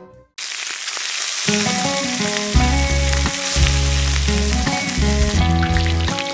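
Mutton tails frying in hot oil in a plough-disc pan: a loud, steady sizzle that starts suddenly about half a second in. Background music with a bass line runs underneath.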